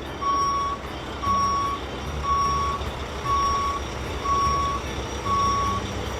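Truck reversing alarm beeping about once a second, each beep a steady tone of about half a second, over the low rumble of the truck's engine.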